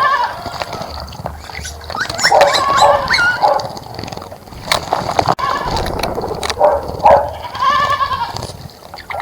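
Goats bleating: several wavering calls, each about half a second to a second long, a few seconds apart.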